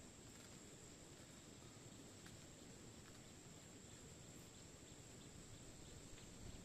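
Near silence: faint outdoor ambience with a steady high-pitched tone and a few faint ticks.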